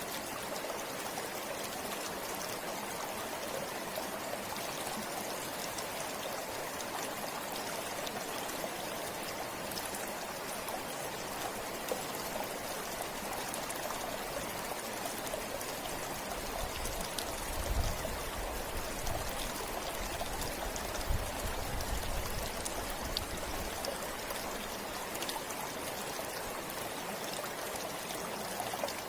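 River water flowing steadily over rocks, an even rushing with fine trickles and splashes. A few low rumbles and thumps come through about two-thirds of the way in.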